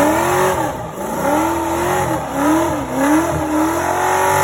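Car engine revving, its pitch rising and falling several times and then holding steady near the end.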